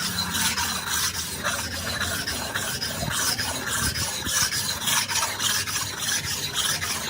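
Hand abrasive work, filing or scrubbing, in quick, even back-and-forth strokes that rasp against a hard workpiece.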